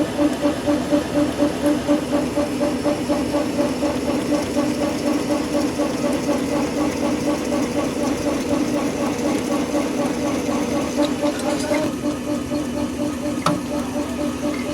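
Factory machinery running with a steady hum that pulses a few times a second, with a few sharp clicks in the last few seconds.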